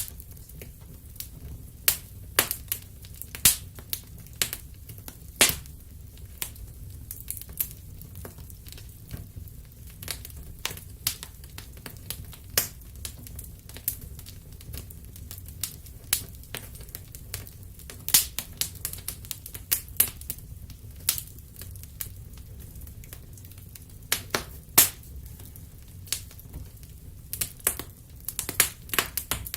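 Wood fire in a fireplace crackling: irregular sharp pops and snaps, a few much louder than the rest, over a low steady rumble.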